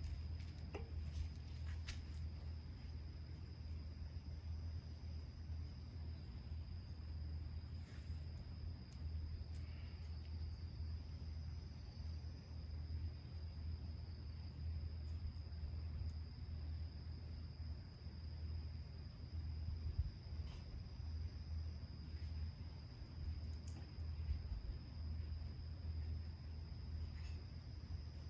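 Insects trilling steadily, one high continuous trill with a faster pulsing chirp above it, over a steady low rumble. A few faint clicks come through now and then.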